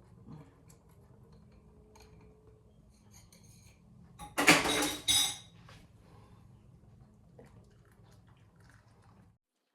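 Kitchen utensils clinking against cookware, with a loud metallic clatter about four and a half seconds in, over a low steady hum.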